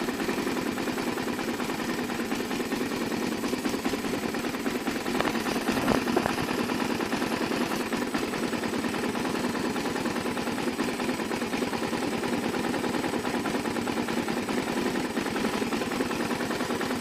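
Single-cylinder four-stroke engine of a Suzuki DR-Z400 supermoto running steadily with a rapid even pulse, a little louder for a moment about six seconds in. The owner hears an unexplained noise in it that he likens to a whistling.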